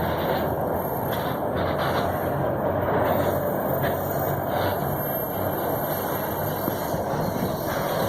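Freight train rolling past, a steady rumbling noise of wagons on the rails with no clear breaks.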